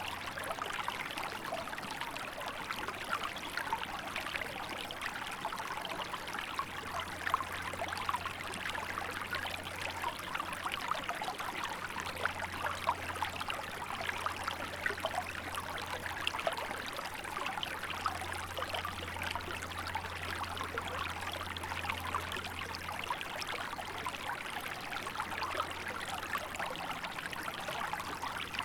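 Small river flowing steadily, a continuous babbling rush of water with fine splashes and trickles throughout. A faint low hum comes and goes underneath.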